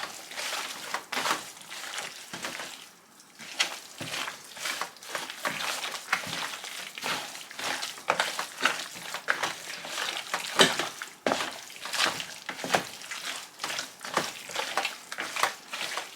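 Irregular rustling and crackling handling noises as seasoned raw chicken breast strips are wrapped up by hand.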